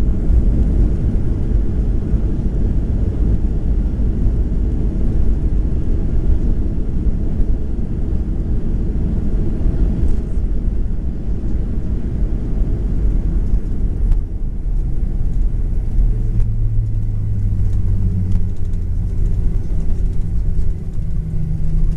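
Inside the cabin of a Boeing 737-700 rolling on the ground after landing: a loud, steady low rumble. About 15 seconds in, a low, steady hum comes up over it.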